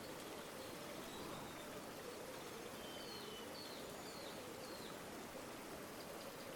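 River water flowing in a steady rush, with a few faint, short high bird chirps about halfway through.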